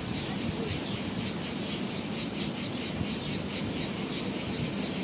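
Insects chirring steadily in a fast, even pulsing rhythm of about eight pulses a second, high-pitched.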